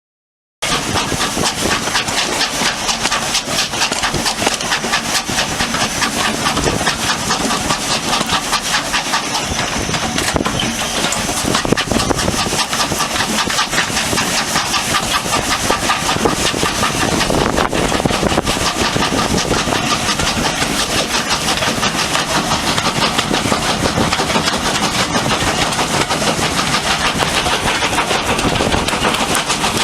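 Steam tank locomotive working along the line, its steady fast exhaust beat and running gear loud throughout. The sound starts suddenly about half a second in.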